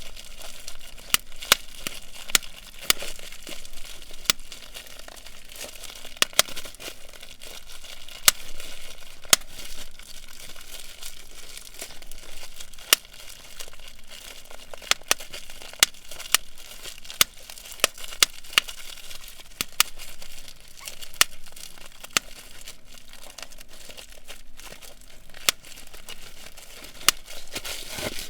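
Bubble wrap being crinkled and popped: a steady plastic crinkling with sharp single pops at irregular intervals, roughly one or two a second.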